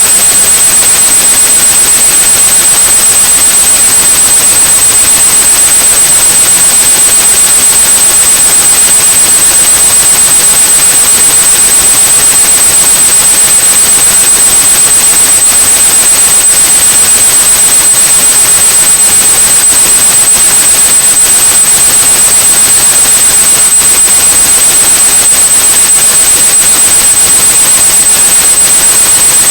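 Synthetic white noise with a steady, high-pitched pure tone of about 8100 Hz over it, both unchanging: a tinnitus-masking sound.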